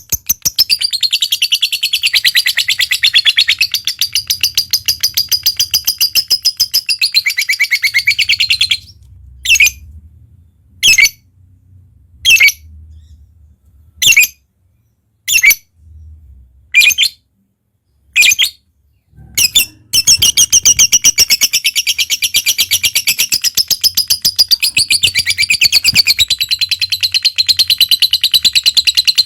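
Lovebird chattering in its long, rapid 'ngekek' trill. Partway in, the trill breaks off into short single calls about every second and a half, then the long fast chatter resumes for the last third.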